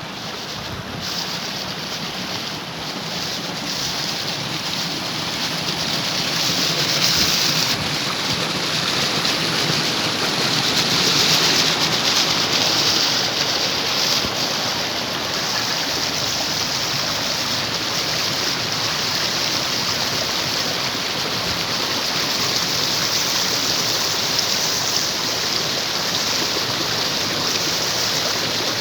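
Steady rush of flowing water, growing louder over the first seven seconds or so and then holding even.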